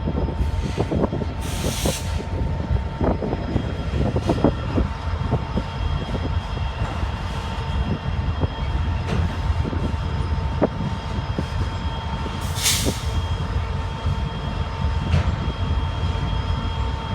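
Norfolk Southern freight train cars rolling past: a steady rumble of wheels on rail with scattered knocks and clicks, faint steady whining tones, and two brief hisses, one near the start and one about two-thirds through.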